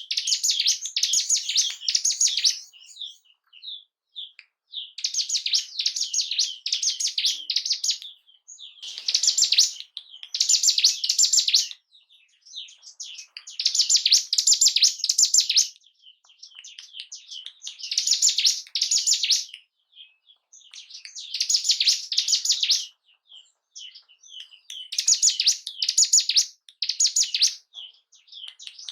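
Ciblek gunung, a mountain prinia, singing its fast, high chattering song in bouts of two to three seconds, about every four seconds, with short pauses between them. This is a lure recording meant to excite a caged bird into breeding condition and fighting spirit.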